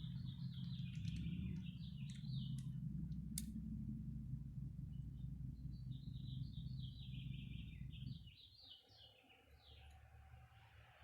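A small bird chirping in quick runs of short, falling notes, in two spells with a pause between, over a steady low hum that stops about eight seconds in. A single sharp click sounds a little after three seconds in.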